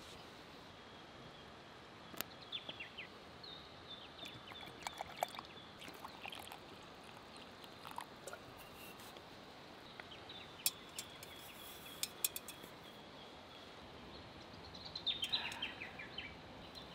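Birds chirping in short bursts over a steady background hiss, with a few sharp clicks.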